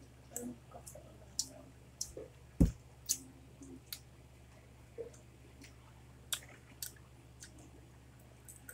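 Close-up eating sounds as rice and adobo are eaten by hand: scattered wet lip smacks and chewing clicks. About two and a half seconds in comes one louder dull thump.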